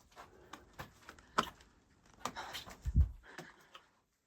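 Scattered light clicks and scuffs, with one low thump about three seconds in, which is the loudest sound.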